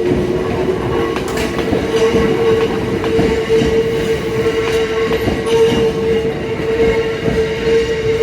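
Hakone Tozan Railway train running on its rails: a steady whine held throughout over a rumble, with wheels clicking over rail joints.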